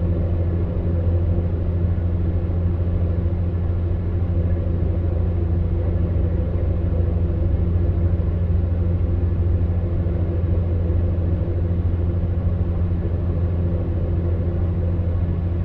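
Electric fan heater running with a steady, monotonous low hum over the even rush of air from its fan.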